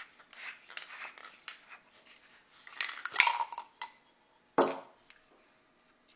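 Small hard plastic parts and packaging being handled: scattered clicks, light clatter and rustling, with a louder clatter about three seconds in and a short sharp sound a second and a half later.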